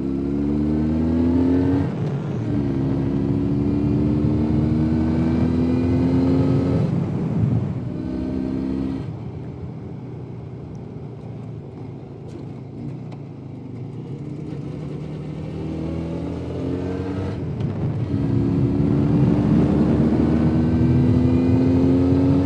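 Jawa 350 type 638 two-stroke twin motorcycle engine pulling through the gears, its pitch rising in each gear and dropping briefly at each shift. About nine seconds in it eases off to a lower, quieter note for several seconds, then picks up again in a long rising pull near the end.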